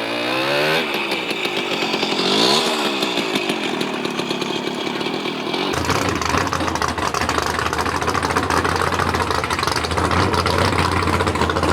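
Heavy truck engine revving, its pitch rising and falling several times. About six seconds in, a deeper, louder engine note takes over and runs steadily.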